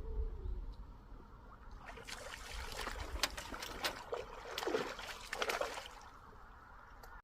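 Water splashing and trickling in a run of irregular splashes lasting about four seconds, then fading.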